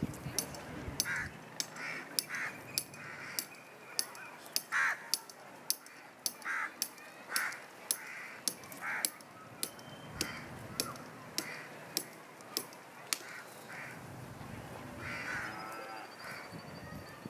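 Birds calling with short, harsh, repeated caw-like calls, among many sharp clicks a few times a second.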